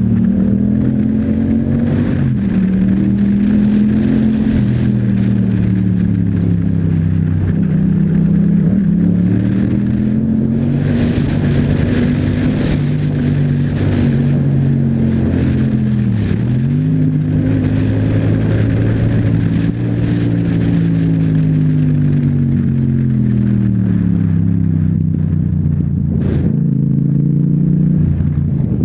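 Yamaha MT-07's parallel-twin engine through an Akrapovic exhaust, revving up and easing off again and again as the bike rides through traffic. The pitch rises and falls in long sweeps, with a quick drop about two seconds in and another about halfway through. Wind rushes over the microphone in the middle.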